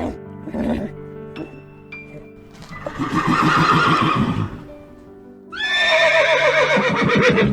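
A horse neighing twice over background music: a first rough call about three seconds in, then a longer whinny that jumps up sharply and falls away in a wavering tremble near the end.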